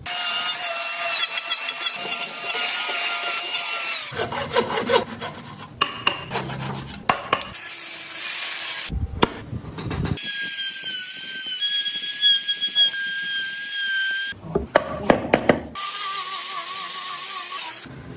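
Woodworking tools on wood in a string of short clips that change abruptly every second or few. A small power carving tool whines at a steady pitch while cutting, alternating with sawing and rasping strokes.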